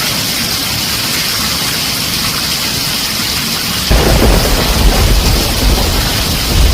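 Heavy rain falling on a tin roof as a steady hiss. A little under four seconds in, a deep rumble of thunder comes in suddenly and continues.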